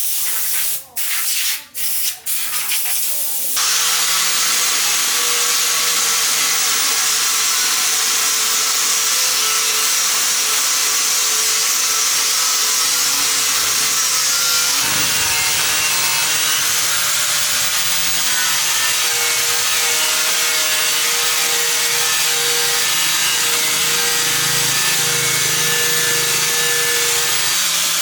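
A few short hissing bursts, then a power tool starts about three and a half seconds in and runs steadily with a rasping sound, as in sanding or grinding metal.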